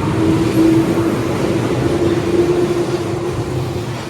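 Keihan electric train running: a steady rumble with a humming tone over it that fades out near the end.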